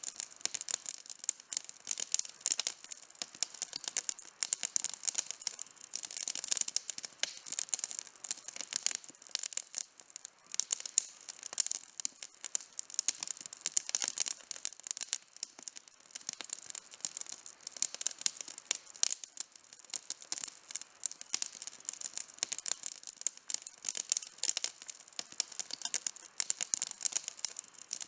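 Campfire burning with constant crackling: a dense stream of small irregular pops and snaps from the burning wood.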